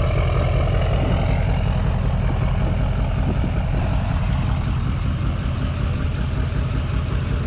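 Moving pickup truck heard from its open bed: a steady low rumble of wind buffeting the microphone, mixed with engine and road noise.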